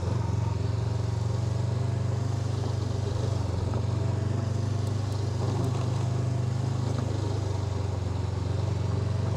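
Honda NX500's 471 cc parallel-twin engine running at a steady, unchanging pitch while the motorcycle is ridden at an even speed.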